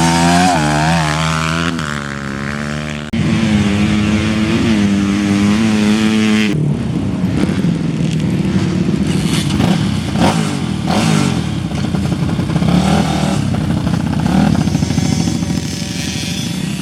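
Dirt bike engines revving, the note climbing and dropping as the bikes accelerate and back off. The sound changes abruptly about three and six and a half seconds in, and after that it is a rougher, less even engine sound.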